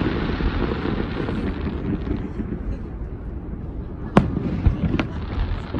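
Fireworks: a low, fading rumble of booms, then two sharp bangs about four and five seconds in.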